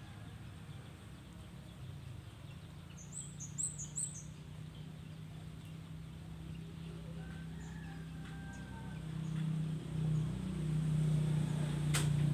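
A bird chirps three quick high notes about three seconds in, over a steady low hum that grows louder near the end. A sharp click comes just before the end.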